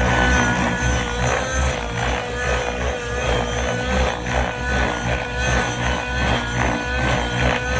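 Nitro engine and rotor of a Tron Nitron 90 RC helicopter running at steady high revs, with a rhythmic swell about twice a second.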